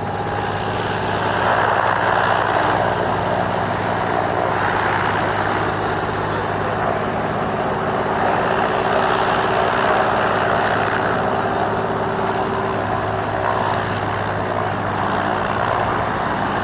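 Robinson R22 helicopter's engine and rotors running steadily as it arrives, loud throughout and slightly louder from about a second and a half in.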